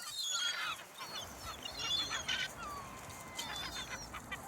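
A flock of seagulls squawking and calling over thrown food, many overlapping short calls, with one longer call falling in pitch about halfway through.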